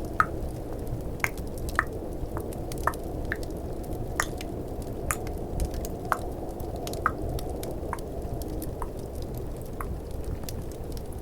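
Close-miked ASMR tongue clicks: irregular wet, drip-like clicks a little more than one a second. Under them runs a steady low snowstorm and fireplace ambience.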